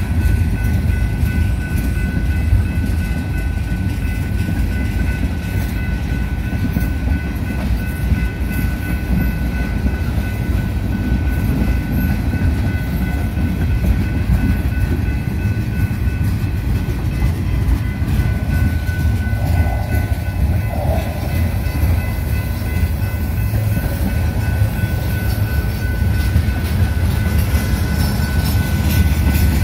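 Train rolling past at close range: a steady, heavy rumble of wheels and cars on the rails, with faint steady high tones over it.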